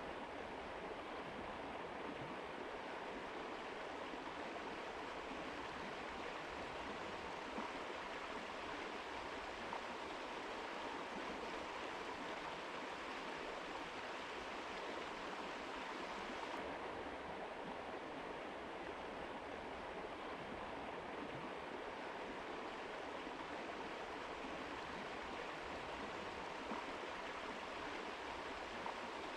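Mountain river rushing steadily over rocks, a dense, even wash of water noise. About halfway through, the brightest top of the hiss suddenly falls away while the rest of the rush carries on.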